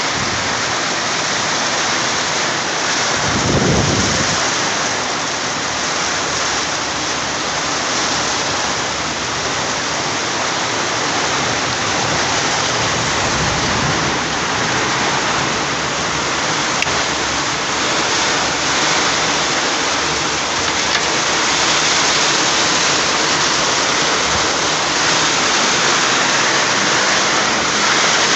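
Heavy rain falling steadily, a dense, even hiss throughout, with a brief low rumble about three and a half seconds in.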